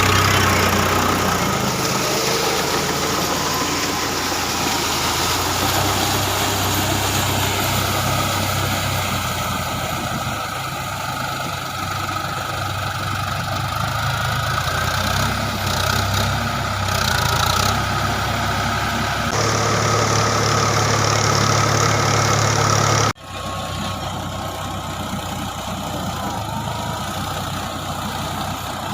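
Tractor diesel engine running steadily while working a rotavator. Near the end the sound cuts out abruptly and picks up again slightly quieter.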